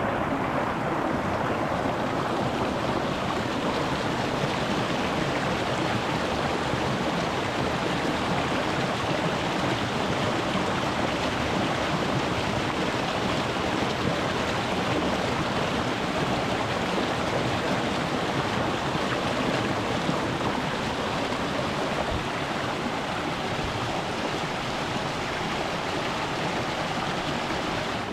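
Small rocky mountain stream flowing and splashing over stones, a steady rushing heard close to the water surface.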